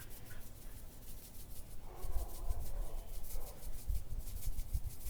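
Faint rubbing and rustling as Creole seasoning is shaken onto oiled bream and worked over the fish by hand, with a low uneven rumble underneath.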